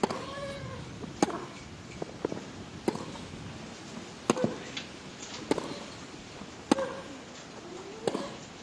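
Tennis rally: racquets striking the ball seven times at a steady back-and-forth pace, about every one and a half seconds, with the players' short grunts on several shots and fainter ball bounces between hits.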